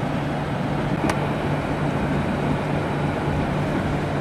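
Regional train heard from inside the passenger car: a steady engine hum with running noise, and one sharp click about a second in.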